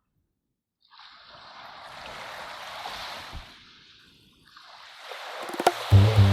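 Two slow swells of soft, rushing, wave-like noise, each rising and fading, after a second of near silence; near the end a few light clicks and then ambient music begins with low bass notes.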